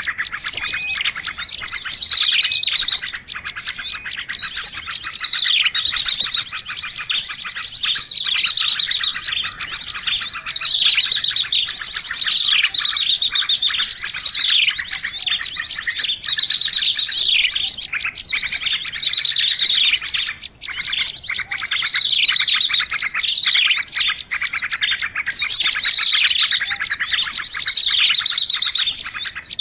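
Small songbirds chirping in a dense, continuous chatter of rapid high trills and many quick downward-sweeping notes. This is a bird-lure call recording (suara pikat) used to draw in small birds.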